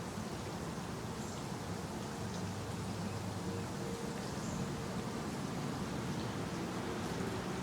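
Steady outdoor background noise with a low hum and a few faint, short high chirps.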